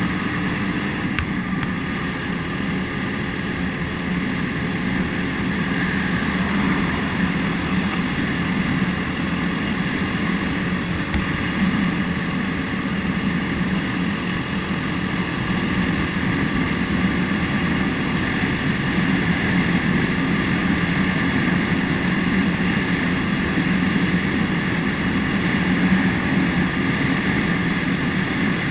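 Motorcycle engine running steadily while under way, with no change in pace.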